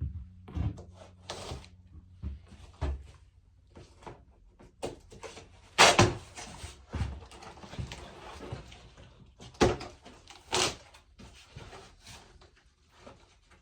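Irregular knocks and clatter from objects being handled, with three loud bangs, about six, nearly ten and eleven seconds in.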